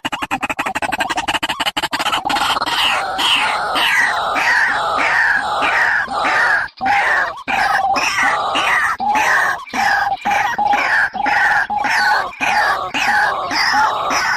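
Recorded bird calls used as a trapping lure: a fast pulsing trill at first, then a long series of down-slurred notes about twice a second.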